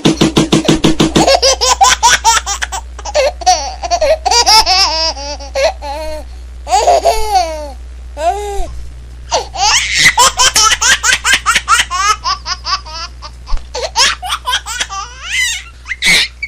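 A baby laughing in long runs of quick, breathy pulses, broken now and then by higher squeals.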